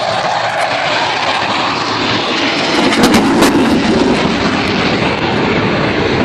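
Blue Angels F/A-18 Hornet jets flying past with a loud jet roar that swells to its loudest about three seconds in, then eases.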